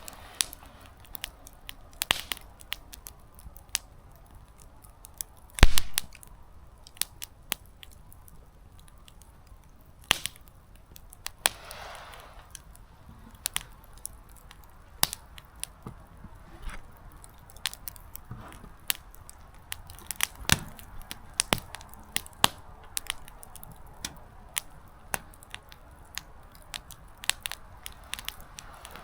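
Small wood campfire crackling, with irregular sharp pops from the burning firewood and a louder pop about six seconds in. A brief hiss rises from the fire around twelve seconds.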